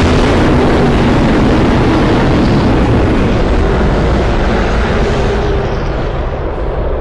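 Custom sound-effect roar for Galactus: one long, loud, rumbling roar that holds steady and begins to fade near the end.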